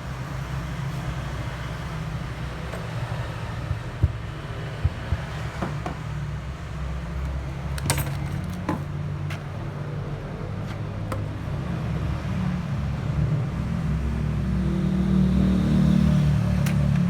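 Low vehicle rumble, growing louder over the last few seconds, with a few sharp clicks about four, five and eight seconds in.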